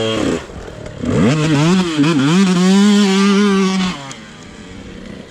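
Two-stroke dirt-bike engine of a Yamaha YZ250 under throttle: the note drops off just after the start, then rises again about a second in and holds high and steady. About four seconds in it falls away and the engine sound drops much quieter.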